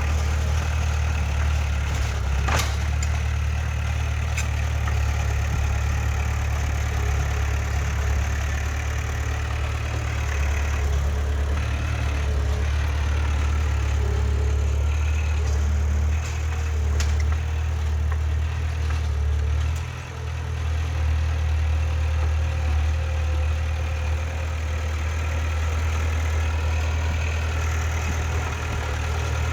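Heavy earthmoving machine's diesel engine running steadily, with a few sharp metallic knocks and a brief dip in engine sound about twenty seconds in.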